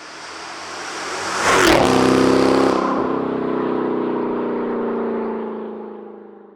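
Dodge Durango SRT Hellcat's supercharged 6.2-litre V8 exhaust: it grows louder to a peak with a sweep in pitch about a second and a half in, as of the vehicle passing, then holds a steady drone that fades out near the end.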